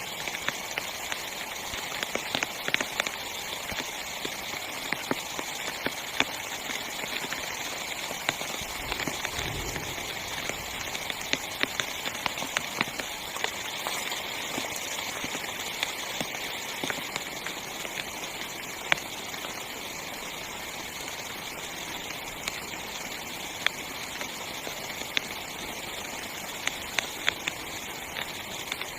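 Heavy rain falling on a small tent's fabric: a steady hiss with many sharp drop taps scattered through it, and a short low rumble about a third of the way in.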